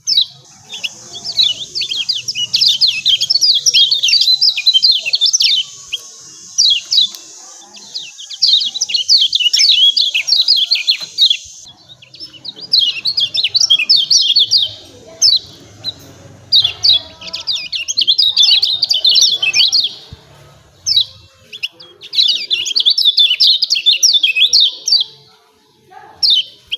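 Lemon-bellied white-eye (kecial kuning) giving its 'ciak ciak' chirping calls: rapid high chirps in bursts of a few seconds, broken by short pauses.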